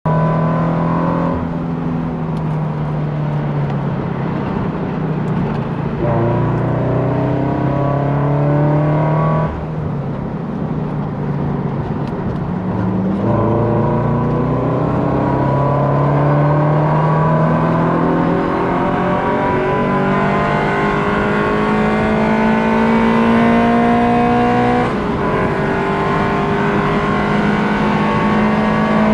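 Subaru BRZ's flat-four engine with a catless exhaust and Tomei header, heard from inside the cabin, driven hard at track pace. Its pitch drops and jumps several times as the driver lifts and shifts, then climbs steadily through a long pull on the straight before an upshift near the end.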